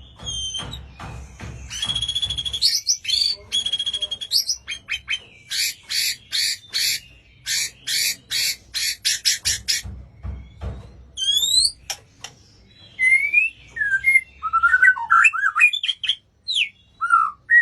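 White-rumped shama singing a long, varied song: held whistles with buzzy high notes, then a quick run of harsh rasping notes, then rising and falling fluted whistles near the end.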